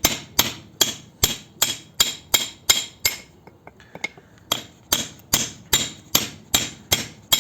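A steel chisel being hammered in a steady run of sharp, ringing metallic strikes, about two and a half a second, with a pause of about a second and a half midway. It is driving seized rubber-metal bushings out of a Lada Priora's front suspension arm.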